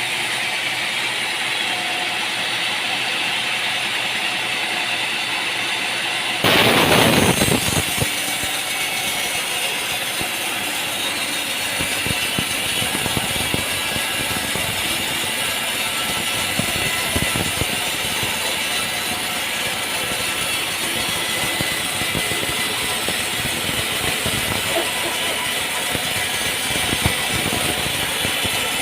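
A machine's engine running steadily, with a short louder burst about six and a half seconds in and scattered knocks and rattles after it.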